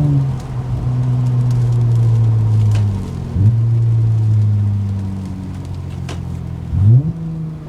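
Car with an RV6 aftermarket exhaust driving, a deep steady exhaust drone whose pitch sinks slowly, broken twice by a quick rise in pitch, about three seconds in and again near the end, where it briefly gets louder.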